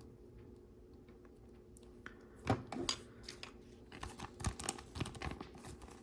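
Faint room tone, then from about two and a half seconds in a run of small sharp clicks and crinkly rustles from hands handling small Lego plastic pieces and a sticker sheet.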